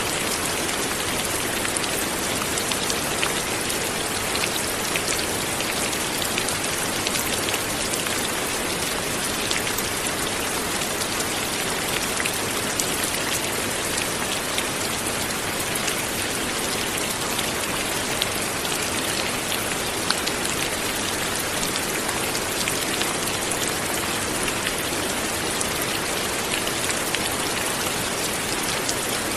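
Steady light rain falling, an even hiss of many small drops with fine pattering ticks of drops hitting a surface.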